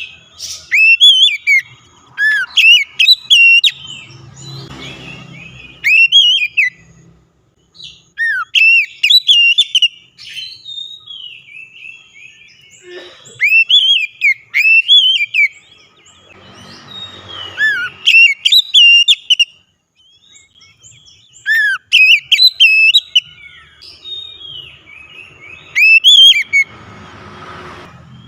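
Oriental magpie-robin (kacer) singing loudly: bursts of quick whistled notes that swoop up and down, repeated phrase after phrase with short pauses between.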